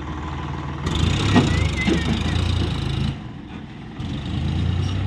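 Diesel engine of a JCB 3DX backhoe loader working under load: it revs up about a second in, drops back briefly around three seconds, then picks up again.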